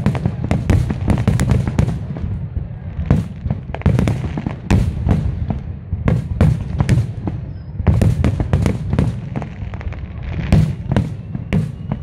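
Aerial fireworks bursting in rapid succession, many sharp bangs and crackles coming close together over a continuous low rumble, as in a finale barrage.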